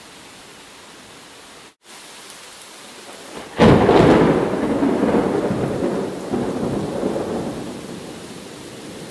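Steady rain, with a momentary cut-out in the sound just before two seconds in. About three and a half seconds in, a sudden thunderclap breaks out and rumbles, slowly fading over the following seconds.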